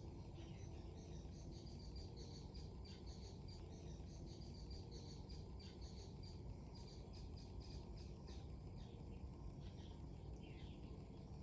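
Small birds chirping in quick, repeated high notes, over a steady low rumble of strong wind on the microphone.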